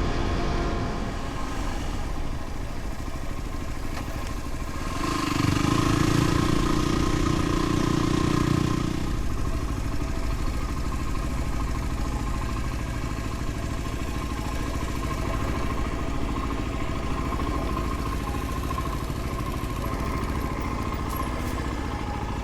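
Dual-sport motorcycle engine running steadily while riding. It grows louder for a few seconds about five seconds in.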